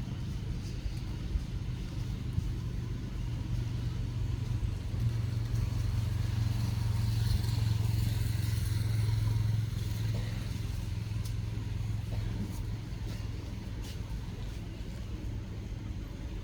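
Low, steady rumble of an engine running, growing louder about a third of the way in and easing off again toward the end.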